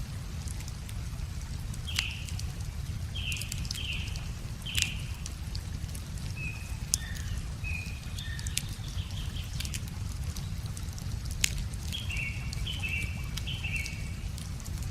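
Wood fire crackling with a few sharp pops, over a low steady rush of flowing water, while a songbird calls in short bursts of notes.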